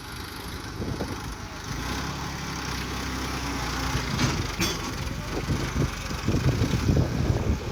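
Diesel tractor engine running with a steady low hum, growing louder and more uneven in the last couple of seconds.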